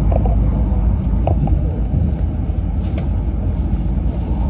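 Running noise inside the passenger cabin of an E6 series Komachi shinkansen train: a steady low rumble of the wheels and running gear on the rails, with a few faint clicks.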